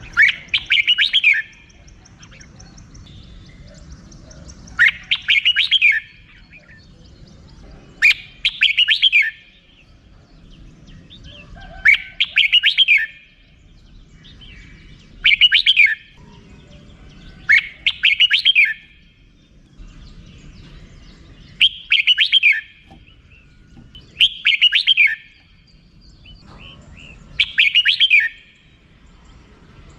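Red-whiskered bulbul giving its rapid chattering 'rik-rik' call. The call comes in short bursts of about a second, nine times, one every three to four seconds.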